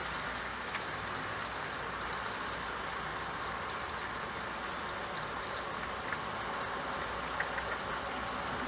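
Steady rain falling, an even hiss with a few faint drop ticks near the end.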